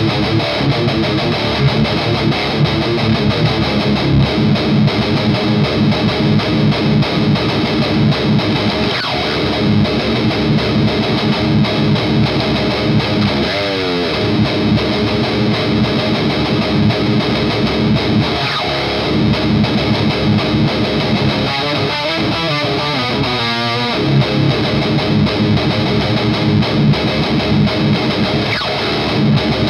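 Electric guitar driven through a Noise Pollution Skull Driver overdrive pedal into an EVH Iconic amp, playing distorted rock riffs without a break. Twice the pitch sweeps in long slides, once about midway and again about three-quarters through.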